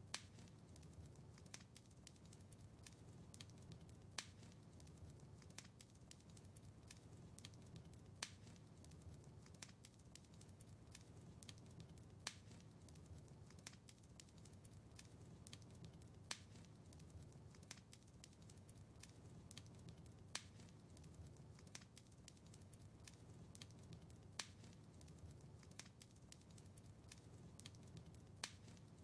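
Faint wood fire in a fireplace crackling, with many small ticks and a louder snap about every four seconds, over a low steady rumble.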